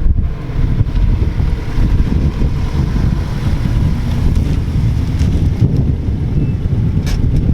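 Wind buffeting the microphone: a loud, uneven low rumble without any clear pitch.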